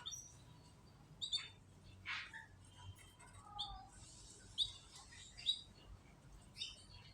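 Canaries chirping: short, high call notes, one about every second, with no continuous song.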